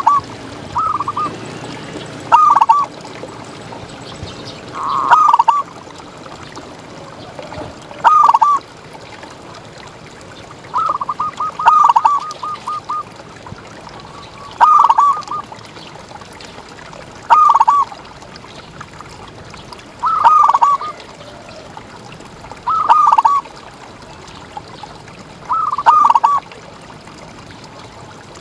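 Zebra dove (perkutut) cooing: a short run of quick, rippling coo notes repeated about every three seconds.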